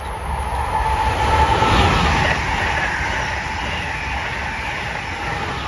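Amtrak Acela high-speed electric trainset passing at speed without stopping: a rush of wheel and air noise that swells to its loudest about two seconds in and holds as the cars go by. A steady whine runs through it.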